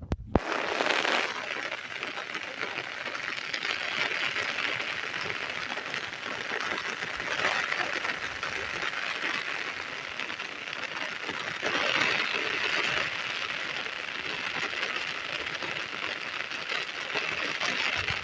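Rain falling, a steady hiss that swells and eases every few seconds.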